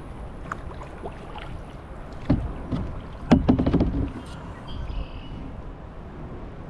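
Kayak paddling on open water: a paddle blade dips and splashes, with a quick run of sharp splashes and knocks a little after three seconds in, over a steady low rush of water and wind.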